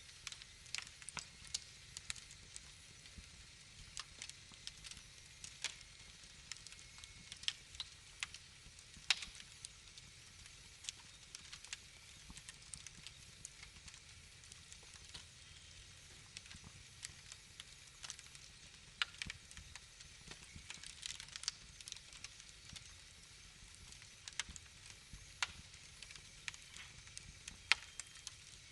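Wood fire crackling: irregular sharp pops and snaps, several a second, over a soft steady hiss and low rumble of the flames.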